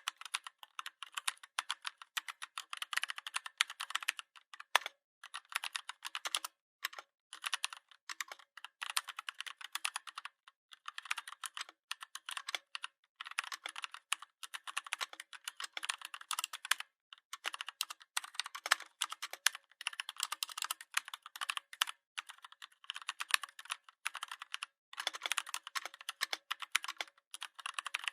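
Computer keyboard being typed on: a fast, continuous patter of key clicks in runs, broken by brief pauses of a fraction of a second.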